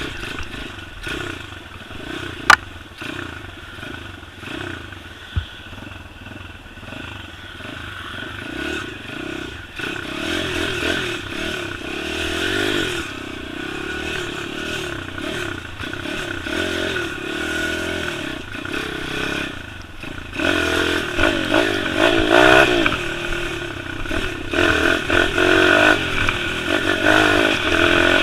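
A small 140–150 cc pit bike engine revving up and down over and over as the dirt bike rides off-road, with a sharp knock about two seconds in. The engine gets louder and busier near the end.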